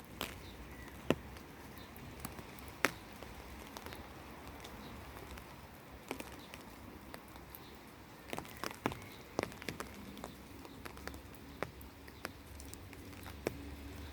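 Rain dripping: irregular single drops striking close by as sharp taps, a dozen or more scattered unevenly, over a steady low rumble.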